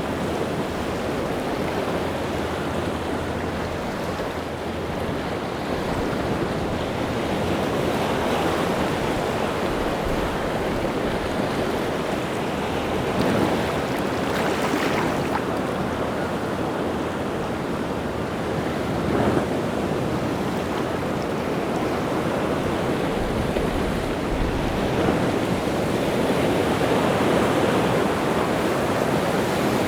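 Rough sea waves breaking and washing continuously on a rocky shore, with a few louder swells as bigger waves crash, and some wind on the microphone.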